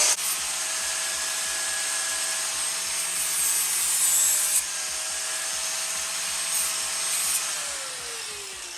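Angle grinder with a worn grinding disc taking the cut edges off sheet-steel patch pieces, its motor whining at a steady speed under the grinding noise. About seven and a half seconds in it is switched off and the whine falls as the disc winds down.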